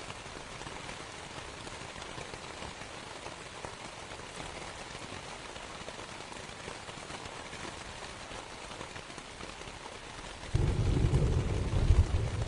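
Steady rain pattering on a canvas tent, then about ten seconds in a deep rumble of thunder sets in suddenly and becomes the loudest sound.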